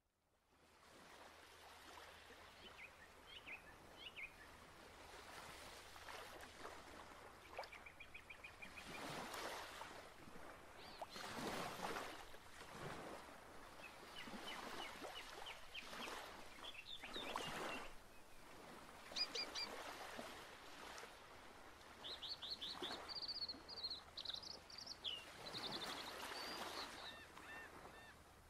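Faint outdoor ambience fading in: birds chirping in short runs of quick repeated calls over a steady hiss, with soft rushing swells of noise that rise and fall every few seconds.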